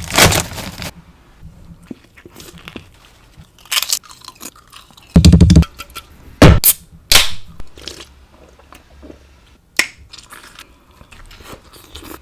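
Close-miked bites into a sub sandwich and chewing: several loud crunching bites spread irregularly through, with quieter chewing between.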